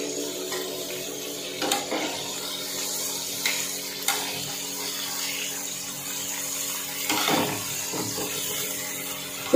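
Fish pieces shallow-frying in hot oil with a steady sizzle, while metal tongs click and scrape against the frying pan a few times as the pieces are turned.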